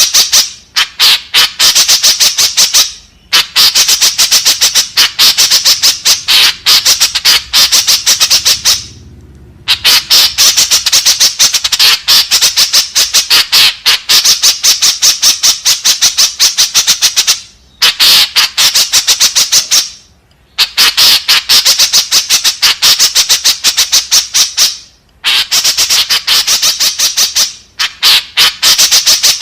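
White-breasted woodswallow (kekep babi) calling: rapid, repeated squawking calls, several a second, in bouts of a few seconds broken by brief pauses.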